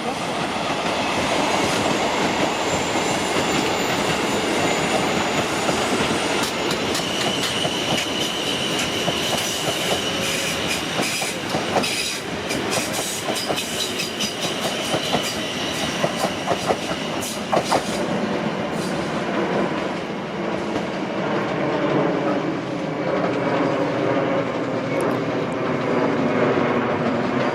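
Class 458/5 electric multiple unit passing on the track, running with a steady rumble. Through the middle its wheels clatter over rail joints and points in a quick run of clicks, with a high whine above them.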